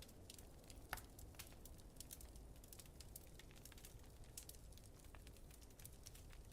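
Wood fire crackling, with frequent small snaps and one louder pop about a second in, over a steady low rumble.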